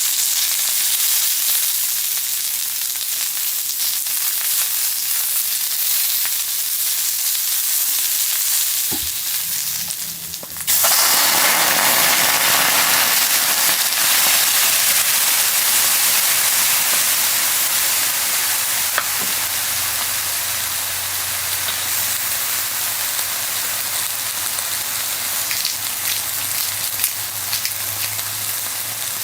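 Firewood burning, a steady crackling hiss. About ten seconds in it briefly dips, then comes back louder and brighter.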